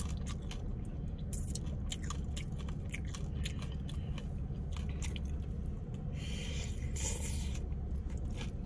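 Close chewing and crunching of fried tortilla chips and a salad bowl, many small crackles with two louder crunches about six and seven seconds in, over a steady low hum.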